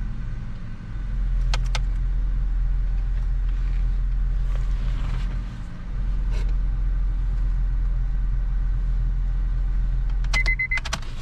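Car engine idling steadily, running again now that the blown ignition-switch fuse has been replaced. A few light clicks are heard, and near the end a quick run of high electronic beeps starts.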